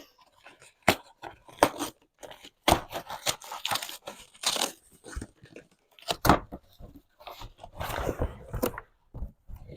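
Mail packaging being torn open by hand: irregular tearing and crinkling with a few sharp crackles.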